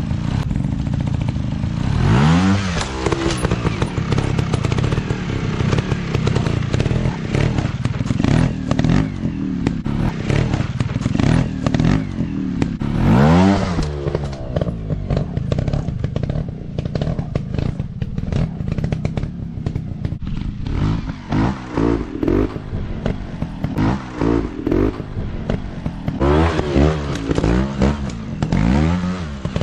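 Dirt bike engines running and revving hard: a rising rev about two seconds in, another about thirteen seconds in, and a run of quick throttle blips in the last third. Scattered clicks and clatter sound throughout.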